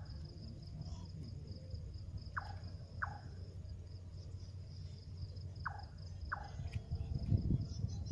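Night insects, crickets among them, trilling steadily on one high note over a low rumble. Twice, an animal gives a pair of short falling calls about half a second apart.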